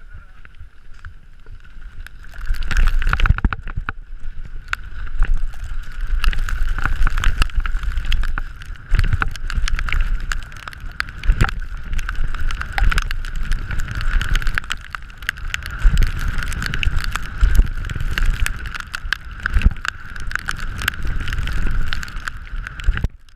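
Downhill mountain bike running fast down a wet trail: a loud, deep rumble of tyres and suspension over rough ground, full of sharp knocks and clatter, with a steady high buzz over it. It picks up about two seconds in and cuts off suddenly near the end.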